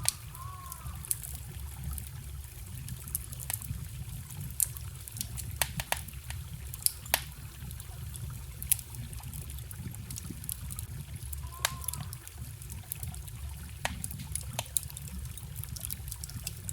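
Wood fire crackling with frequent sharp pops over the steady trickle of a forest stream. A brief bird call comes near the start and another about two-thirds of the way through.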